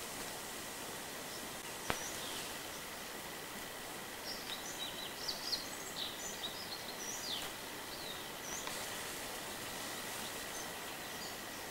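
A bird calling in quick runs of short, high, falling chirps through the middle few seconds, over a steady hiss with a faint high steady tone. A single sharp click about two seconds in.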